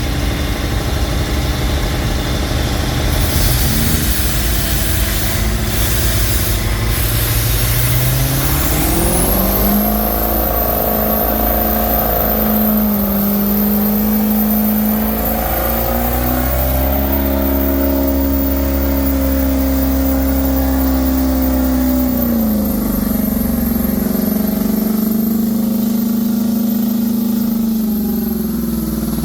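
Ford Power Stroke diesel truck engine revved hard on nitrous to force a stubborn turbo to spool: its note climbs about nine seconds in and is held high, with a high whine joining as the revs rise and small dips in pitch later. The truck is being fed nitrous because it won't spool, which the owner puts down to an aftermarket injection pressure regulator valve.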